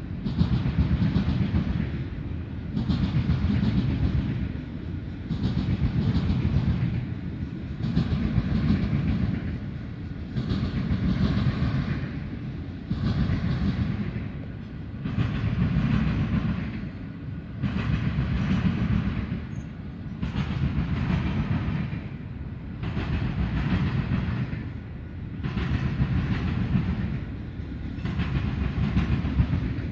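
A freight train's cars rolling past, wheels clicking and rumbling over the rail joints. The sound swells and fades about once every two seconds as each car goes by.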